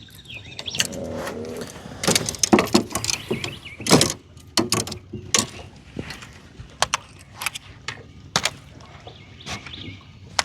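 A run of irregular sharp knocks and clicks, the loudest between about two and four seconds in.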